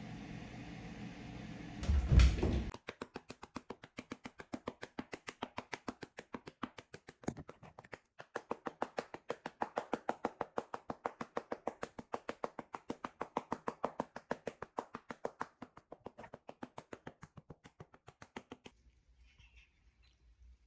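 A steady rushing noise with a loud burst about two seconds in, which then stops, followed by a cat lapping water: a rapid, even run of wet clicks, about five laps a second, for some fifteen seconds before it stops near the end.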